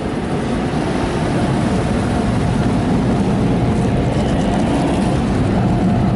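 PDQ ProTouch Tandem car wash dryer blowers running, a loud, steady rush of air over the car heard from inside the cabin, growing slightly louder.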